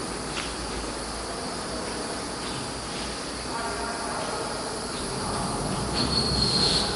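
CNC router's 6 kW HSD spindle running, a steady high whine over a hiss of machine noise, the whine swelling louder near the end.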